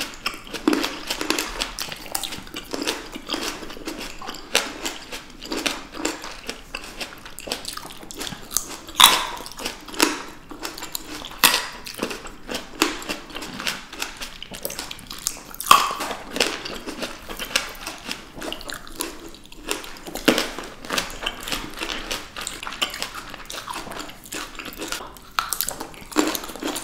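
Close-miked chewing of juicy green grapes and blackberries: a steady run of wet crackles and squishes, with a few louder sharp bites standing out.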